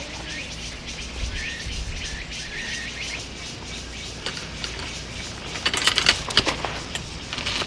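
A bird chirping a few short notes over steady outdoor background, then a brief run of sharp clicking and rustling about two-thirds of the way through, the loudest part.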